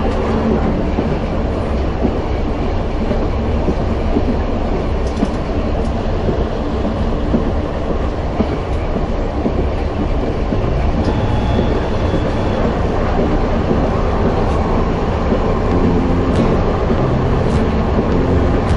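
Narrow-gauge train running along the track: a steady rumble with a few sharp clicks of the wheels over the rails.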